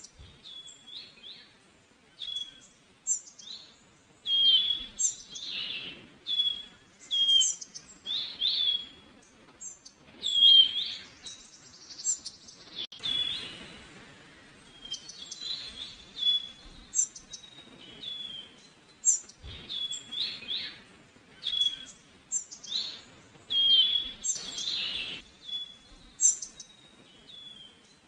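Small birds calling: many short, high chirps repeated throughout, several overlapping at times.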